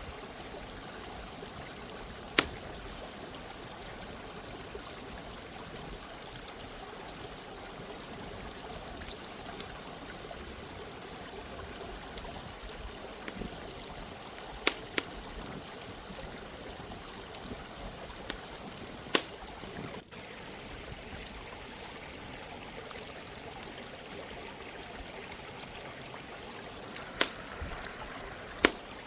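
Steady running water of a stream, with a campfire crackling over it: faint ticks throughout and a handful of sharp pops, the loudest about two seconds in and twice near the end.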